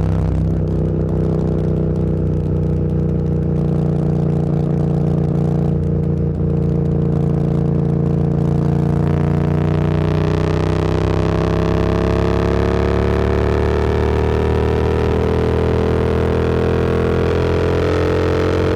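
Motorcycle engine running steadily under way, then from about halfway pulling harder, its pitch climbing slowly as the bike gathers speed, with a rushing wind noise growing alongside.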